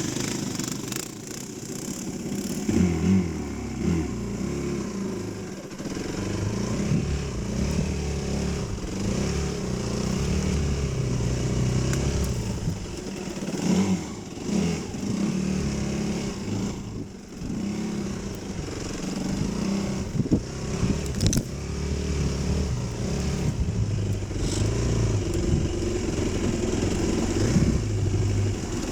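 Dirt bike engine running on a trail ride, its pitch rising and falling again and again as the throttle is opened and closed.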